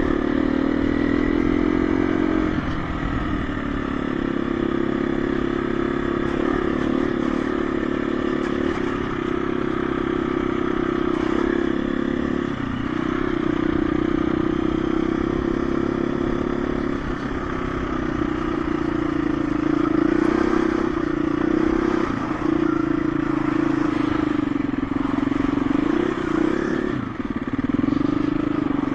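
KTM 350 EXC-F dirt bike's single-cylinder four-stroke engine running while ridden, its pitch holding fairly steady with short drops every few seconds as the throttle is rolled off and opened again.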